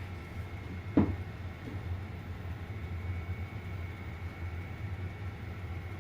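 Microwave oven running with a steady low hum and a faint high whine, with one sharp knock about a second in.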